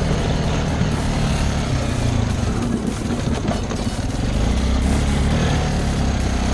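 Small off-road vehicle engine running steadily: a continuous low drone with a rough, noisy haze over it.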